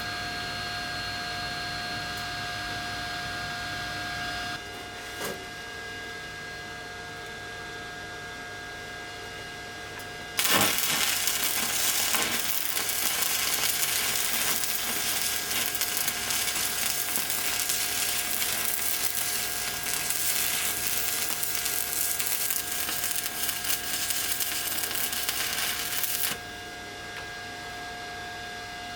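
Electric arc welding with an inverter welder. A steady machine whine and hum runs throughout. About ten seconds in the arc strikes and crackles and sizzles steadily for roughly sixteen seconds, then cuts off.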